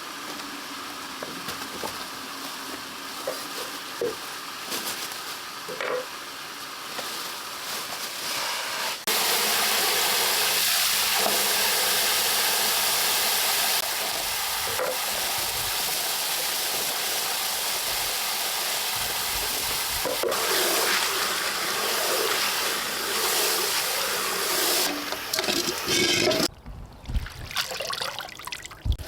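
Braised pollack in a pan over a wood fire, sizzling and bubbling while it is stirred. The hiss comes in a few stretches that start and stop abruptly, loudest about a third of the way in.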